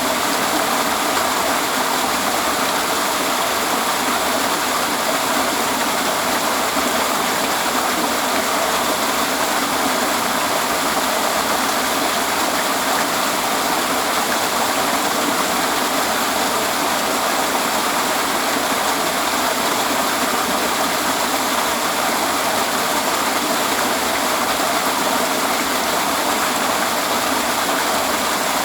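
A waterfall's falling water rushing steadily, with no change in level.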